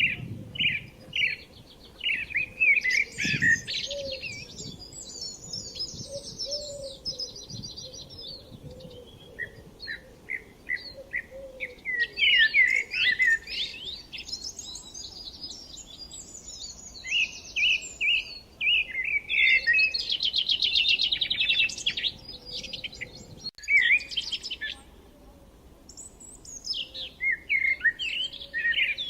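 Songbirds chirping and singing, short repeated chirps mixed with rapid trills, coming in bursts with brief pauses.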